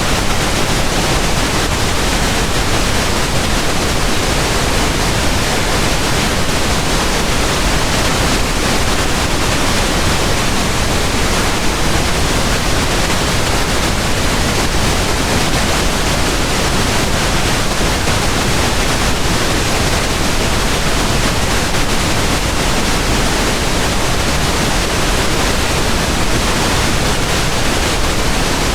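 Pink noise: a steady, even hiss spread across all pitches, with no changes.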